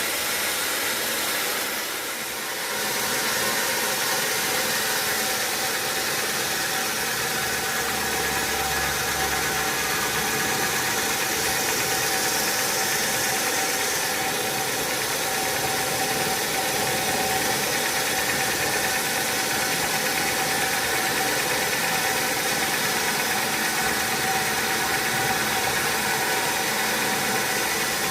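Sawmill machinery running steadily: a constant mechanical noise with a steady whine, dipping briefly about two seconds in.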